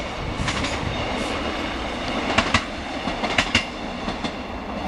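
Small diesel multiple-unit passenger train running past on the track, a steady rumble with a few sharp clicks from its wheels.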